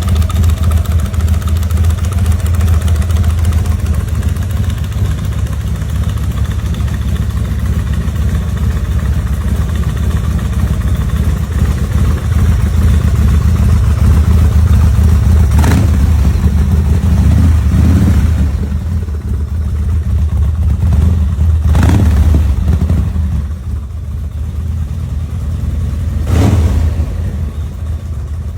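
Homemade hardtail chopper's engine running loud and steady, with a few short sharp pops in the second half.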